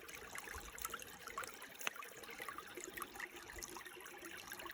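Shallow stream trickling and bubbling softly over rocks, with one faint click about two seconds in.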